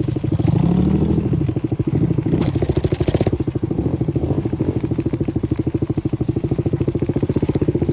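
125cc dirt bike engine running at low, steady speed with a rapid, even exhaust pulse, with a brief rattle about two and a half to three seconds in.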